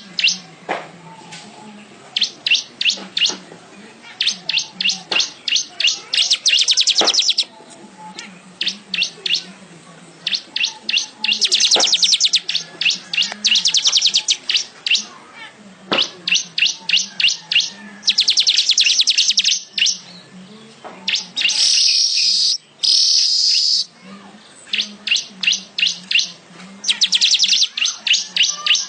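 Weaver bird (manyar) singing continuously: runs of rapid, high-pitched chattering notes, each run lasting one to two seconds, repeated again and again with short pauses.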